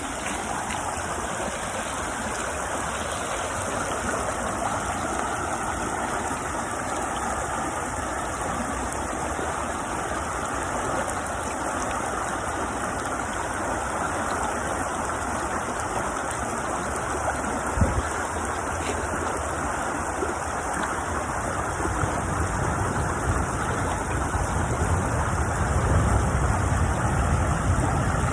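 Small stream flowing steadily, an even rush of running water. A brief knock comes about eighteen seconds in, and a low rumble grows louder in the last few seconds.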